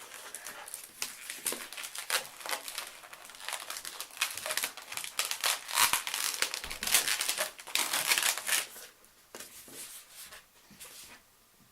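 Latex modelling balloon being handled and twisted: rapid rubbing and crinkling of the rubber in quick bursts, dying down after about nine seconds.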